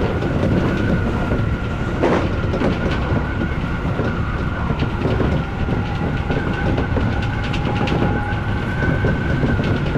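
Odakyu electric commuter train running at speed: steady rumble of wheels on rail with a constant high whine, and sharp clicks as the wheels pass over rail joints, the loudest about two seconds in.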